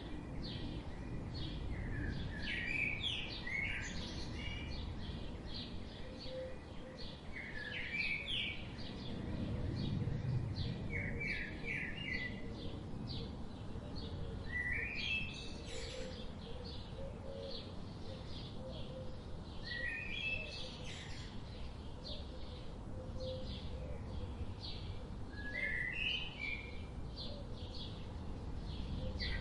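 Outdoor birdsong: several birds chirping, with a short rising song phrase repeated every few seconds and many quick chirps in between, over a low steady background rumble.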